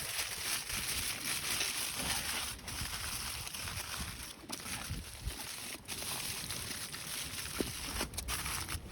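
Blizzard wind blowing steadily, a dense hiss over a low rumble, with a few brief lulls.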